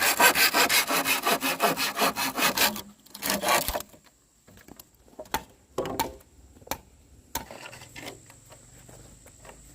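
Hand saw cutting through wood in rapid back-and-forth strokes. The sawing stops about three seconds in, followed by a brief last burst of strokes and then a few separate knocks.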